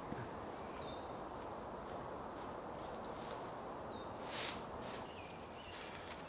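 Outdoor ambience: a steady hiss with short bird chirps that fall in pitch, heard four times, and a few brief rustles or footsteps, the loudest about four seconds in.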